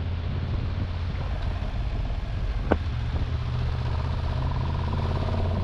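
Triumph Tiger 1200 Rally Explorer's three-cylinder engine running steadily while riding, with wind and road noise. A single short click sounds about two and a half seconds in.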